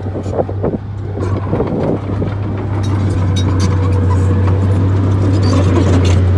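Bulldozer's diesel engine running under load with a steady low drone and metallic rattling, growing louder about two to three seconds in.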